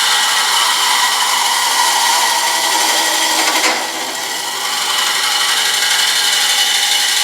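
Carbide cutter scraping into a spinning walnut and lacewood urn blank on a wood lathe, hollowing the inside, a continuous loud rasp over the lathe's running tone. The cut eases briefly about halfway through, then carries on.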